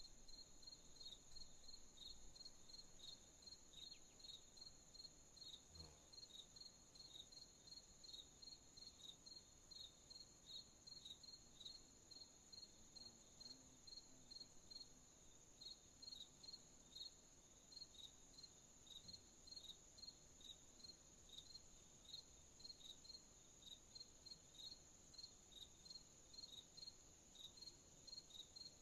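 Faint crickets chirping: a steady high trill with short, evenly repeated chirps about two to three times a second layered over it.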